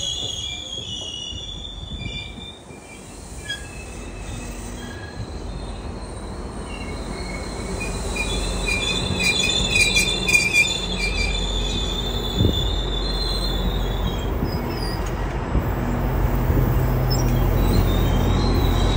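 GO Transit bilevel passenger coaches rolling slowly past on the rails, with high-pitched squealing from the wheels and a low rumble of the running gear that grows louder through the second half. A few clicks and a single knock come through partway.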